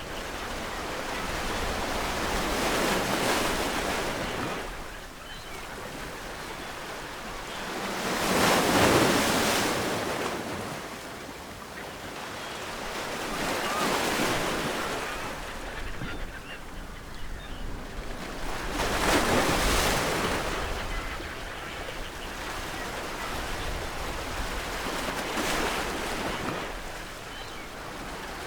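Ocean waves breaking on a shore: five surges of surf, each swelling and then fading back, about every five to six seconds, the loudest a third and two thirds of the way through.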